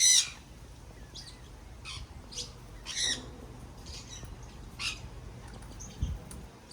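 Small parrots squawking: one loud harsh squawk at the start, then shorter, quieter calls about once a second. A faint low thump comes about six seconds in.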